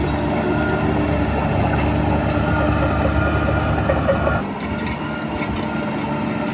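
Heavy diesel engine of earthmoving machinery running steadily. Its note drops and quietens about four seconds in.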